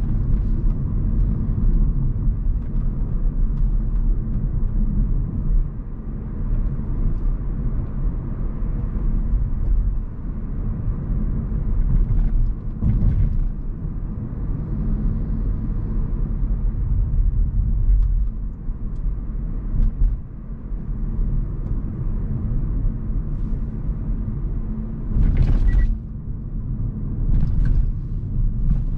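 Hyundai Kona Hybrid driving on a road: a steady low rumble of tyres and road noise, with a few brief louder bumps about halfway through and again near the end.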